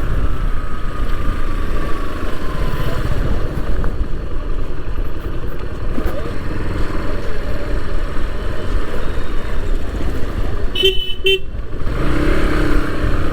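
Motorcycle being ridden, its engine running under a steady rush of wind noise. A vehicle horn gives two short toots about eleven seconds in.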